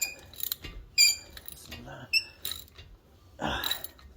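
Hand tools working the bolts of a front disc brake: scattered sharp metallic clicks and clinks with short high rings, like a ratchet and socket on steel. A short rushing noise comes about three and a half seconds in.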